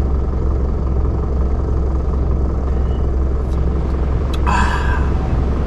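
Portable generators running nearby, a steady low engine drone and hum. A short higher-pitched sound comes briefly about four and a half seconds in.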